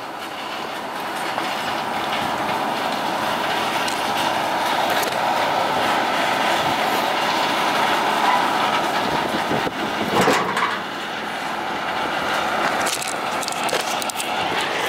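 Ford Super Duty truck with a 6.8-litre V10 under way: steady engine and road noise that slowly grows louder, with a brief change about ten seconds in.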